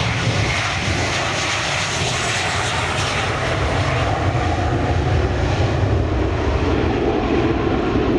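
Embraer KC-390 transport jet's two turbofan engines at takeoff power: loud, steady jet noise with a deep low rumble.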